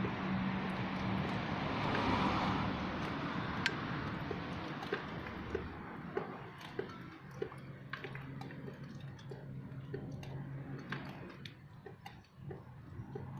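Outdoor traffic sound: a vehicle's rushing noise swells and fades over the first few seconds over a low engine hum, with scattered sharp ticks throughout.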